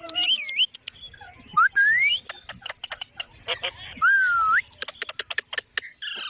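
Pet parrot calling: a short chirping call at the start, then two rising whistles, about one and a half and four seconds in, with many sharp clicks between them.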